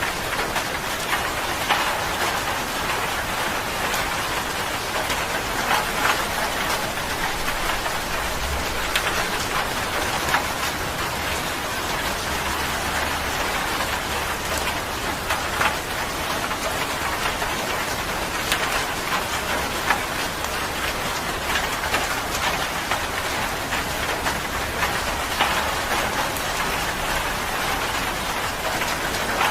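Steady rain falling on a surface, an even hiss with many distinct drops pattering through it and a faint low rumble underneath.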